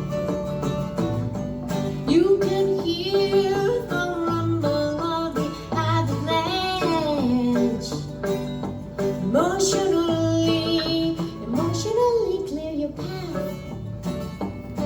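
A song performed live: a singer's voice carrying a melody over guitar accompaniment, with held sung notes in the middle of the stretch.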